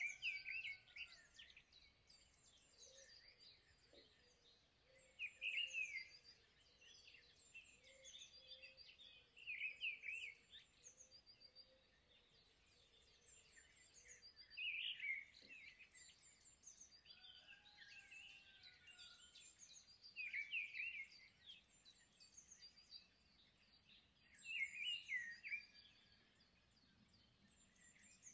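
Quiet songbird chirping: a short burst of song about every five seconds, with fainter twittering between the bursts.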